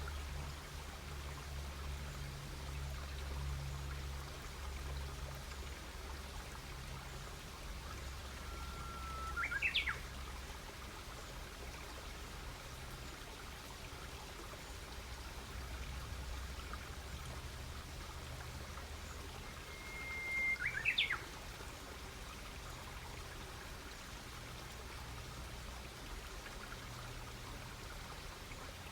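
A campfire burning with a steady crackle and hiss. A bird sings twice, each song a held whistle that ends in a quick rising flourish.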